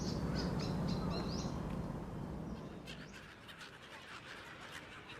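Gulls calling: several short, high calls in the first second and a half over a low rumble, then fainter calls.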